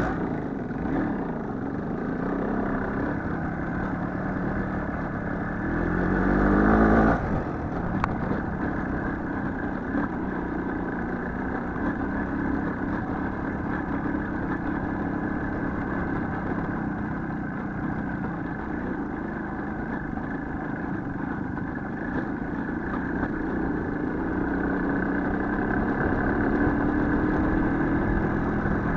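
Small motorcycle engine running while riding, revving up sharply about six seconds in, then running steadily and climbing in pitch again near the end.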